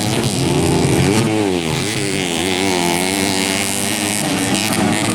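Off-road racing motorcycle engines revving hard, the pitch swinging up and down as the riders work the throttle and shift.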